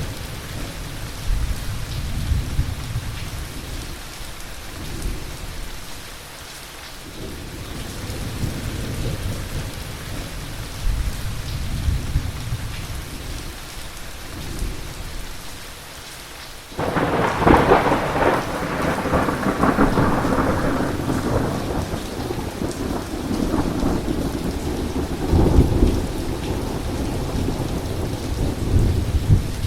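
Heavy thunderstorm: steady rain with low rolling thunder, then a sudden loud thunderclap about 17 seconds in that rolls on and slowly fades, with another rumble of thunder near the end.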